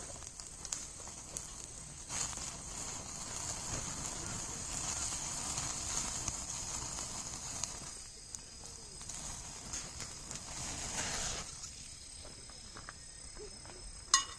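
Insects trilling in a steady high chorus, with a rushing hiss that swells about two seconds in and cuts off suddenly about eleven seconds in. Two sharp clacks come near the end.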